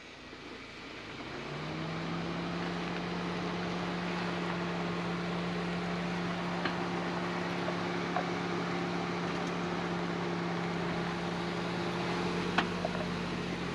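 Suzuki Jimny JB74's 1.5-litre four-cylinder engine rising in revs over the first second or two, then held at steady revs under load. A couple of light knocks near the end.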